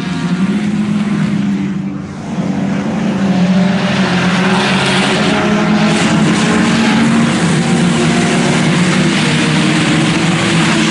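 A field of IMCA Sport Compact race cars running at racing speed, their four-cylinder engines droning together. The sound dips briefly about two seconds in, then grows louder and holds steady.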